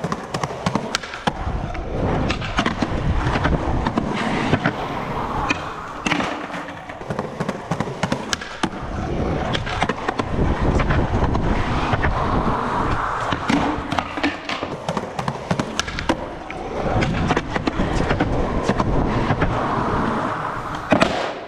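Skateboard wheels rolling steadily over rough pavement, broken by many sharp clacks and knocks of the board, with the loudest impact near the end.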